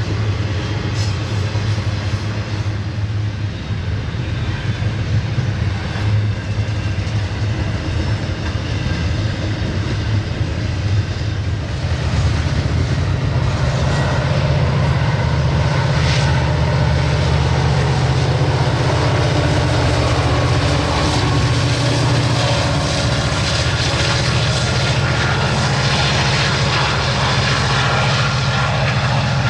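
Passing train, its diesel locomotive engine running with a steady low drone over rail noise. It gets louder about twelve seconds in.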